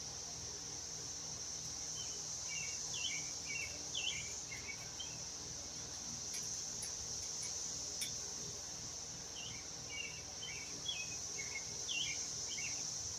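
Steady high-pitched insect drone, typical of crickets, with a bird singing two runs of short chirps, one starting about two seconds in and another about nine seconds in. A few faint clicks fall between them.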